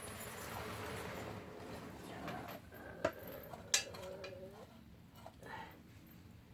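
Snacks roasting in a pan over a wood fire in a traditional firebox: a soft hiss, two sharp clicks about three seconds in, then a short wavering whine lasting about a second.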